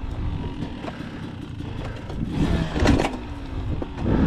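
Dirt bike being kick-started, its engine sputtering and running roughly, with a brief rev that falls away about three seconds in.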